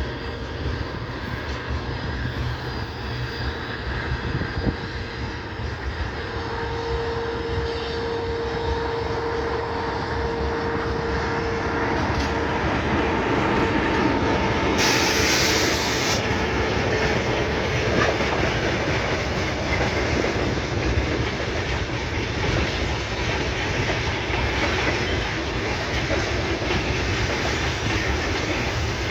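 A train passing, growing louder over the first half and then running steadily, its wheels clacking over the rail joints. A steady whine sounds from about 6 to 12 seconds in, and a short high hiss about 15 seconds in.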